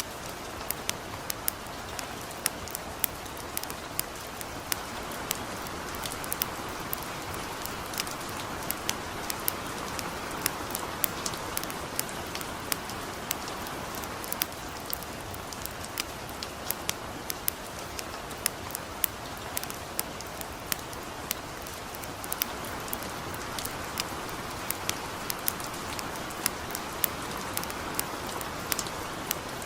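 Steady hiss of light rain, with a campfire crackling over it in frequent sharp pops, a few a second.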